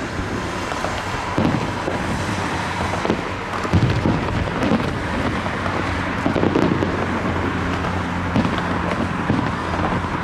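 Fireworks going off in a steady run of low booms and crackles, louder bursts about four and six and a half seconds in, over a steady low hum.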